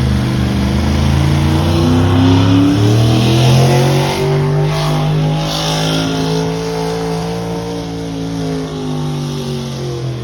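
A pulling vehicle's engine running hard under load during a pull. Its pitch climbs about two seconds in, holds steady, then falls away at the end as the engine is let off.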